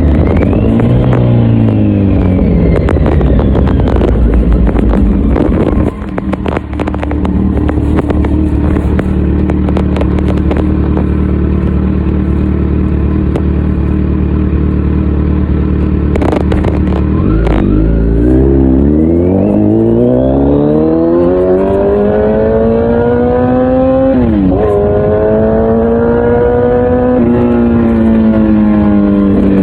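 Kawasaki Z900 inline-four with an Akrapovic full exhaust, heard from the rider's position. It slows with the pitch falling, then idles steadily for about ten seconds. About seventeen seconds in it accelerates hard with a rising pitch, drops briefly at a gear change about twenty-four seconds in, and pulls on at a steady pace.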